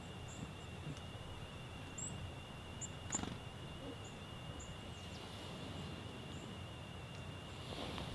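Small wild birds giving short, very high chirps every second or so, over a steady high whine and a low outdoor rumble.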